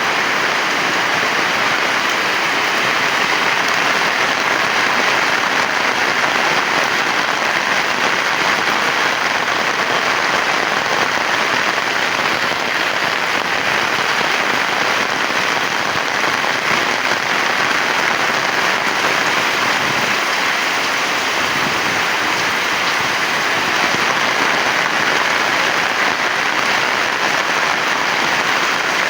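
Heavy rain falling, a loud, steady, dense hiss.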